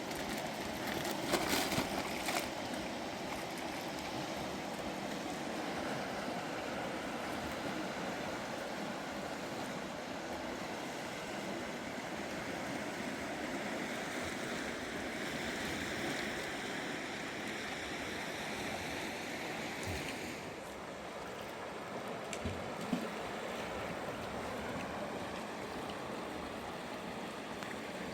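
Steady rush of flowing river water, with a few sharp knocks about one to two seconds in.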